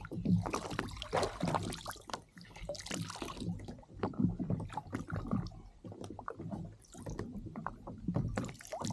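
Sea water splashing and sloshing against a kayak, with irregular small knocks and clicks from handling on board.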